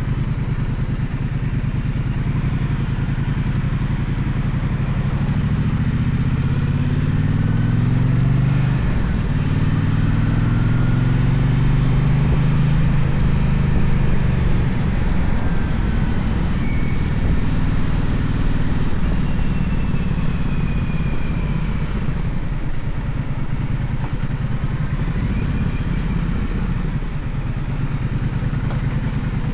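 Gaokin GK1200 motorcycle engine running under way, its pitch rising twice through the gears about a quarter to halfway through, then holding a steady cruise.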